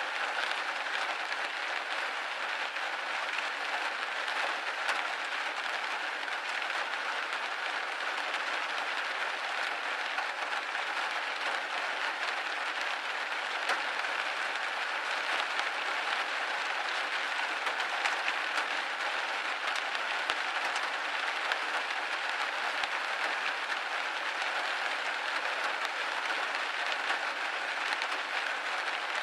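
Steady rain hitting a window pane: an even hiss made of many small drop ticks, with no low rumble.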